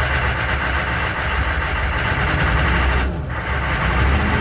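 A 1995 Chevy K3500's 6.5-litre turbo-diesel V8 idling steadily just after a hard start on weak batteries. The upper hiss dips briefly about three seconds in.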